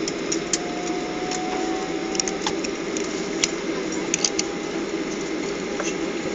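Steady cabin noise inside a Gol Boeing 737 after landing, with scattered sharp clicks and knocks over it.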